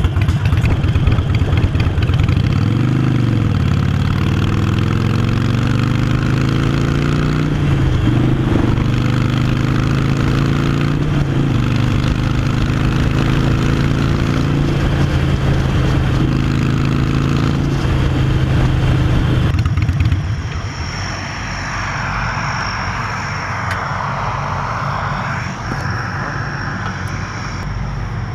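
Harley-Davidson Iron 883's air-cooled V-twin running loud through Vance & Hines Short Shots Staggered exhaust while riding, its pitch rising and falling a few seconds in, then holding steady. About 20 seconds in the engine is shut off, leaving a quieter steady whooshing noise.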